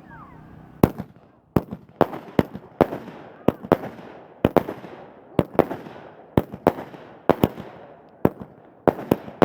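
Fireworks going off in a rapid barrage: a string of sharp bangs, about two a second, each followed by a short rolling echo, beginning just under a second in.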